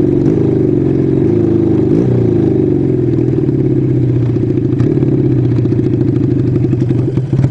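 Kawasaki 440 motorcycle's parallel-twin engine running under way. Its pitch sags and climbs with the throttle a few times in the first two seconds, then holds fairly steady, with a brief dip near the end.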